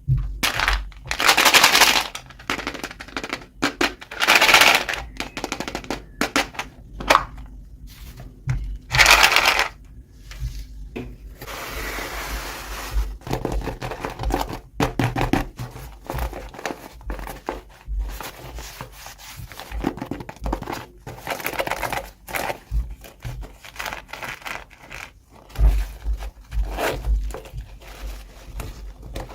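Packaging being torn open and crinkled by hand, in repeated short rustling bursts, with scrapes and light knocks of small plastic toy parts being handled.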